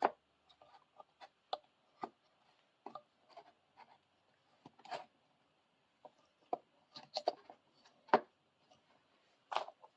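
Irregular faint clicks and light knocks, about fifteen in all, from a camera tripod's parts being handled and worked.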